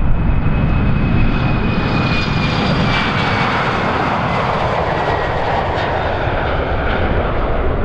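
Airliner's engines passing by, a loud rushing roar that swells and fades with a high whine slowly falling in pitch, over a heavy low rumble.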